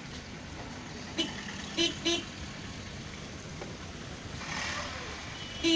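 Car horns beeping in traffic: one short toot about a second in, two quick toots soon after, and a string of honks starting at the very end, over a steady low road rumble.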